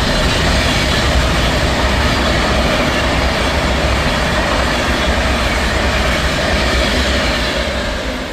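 A passing train running at speed close by. A loud, steady rush of wheel and air noise holds for several seconds, then begins to fade near the end.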